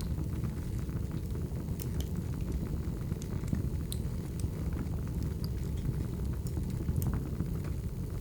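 Wood fire burning: a steady low rumble of flames with scattered sharp crackles and pops of the burning logs.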